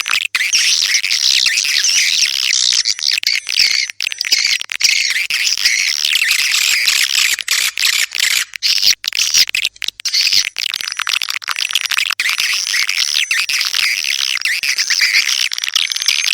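Swiftlet calls: a dense, continuous twittering of many high, rapid chirps, as in a recorded swiftlet call used to draw swiftlets into a nesting house.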